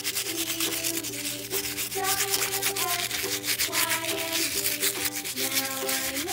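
Small stiff-bristled plastic brush scrubbing a soapy toy car in rapid back-and-forth strokes, with a melodic background music track playing underneath.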